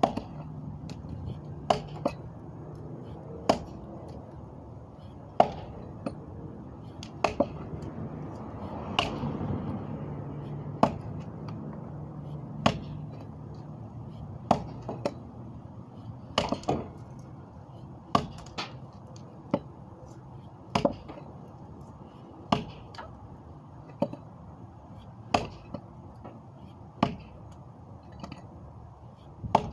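Sharp knocks or chops, one roughly every one and a half to two seconds, sometimes two close together, over a steady low rumble.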